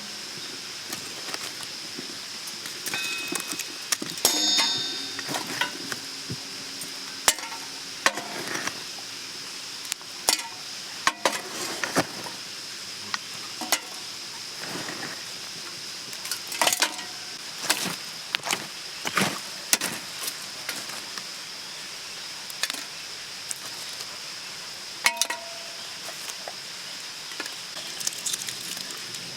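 Food sizzling in a pan over the campfire, with a steady hiss and repeated clinks and scrapes of metal cookware and utensils; one ringing metallic clink about four seconds in.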